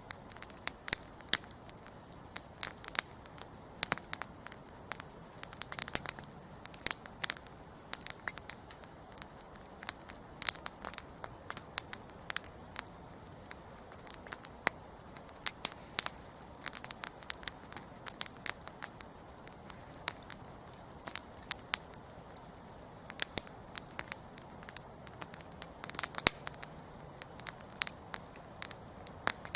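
Wood campfire crackling: irregular sharp pops and snaps, several a second and varying in loudness, over a faint steady background hiss.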